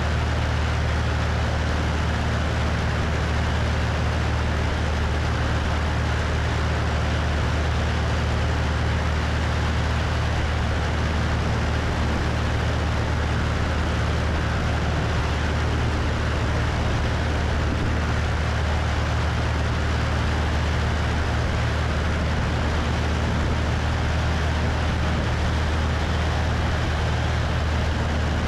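Cessna 172's piston engine and propeller running steadily at constant power, with wind rushing over the wing-mounted microphone; a low, even drone under a wide hiss that does not change.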